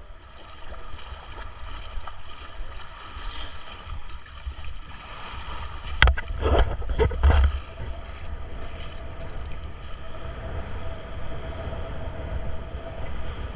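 Steady outdoor wind rumble on the microphone over a faint steady hum, with a few loud knocks about six to seven and a half seconds in.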